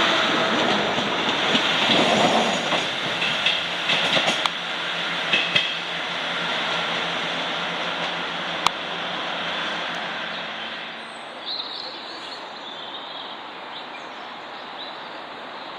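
Diesel multiple unit train running on the line, wheels clattering with a few sharp clicks and short squeals in the first half. The sound fades away through the second half as the train moves off.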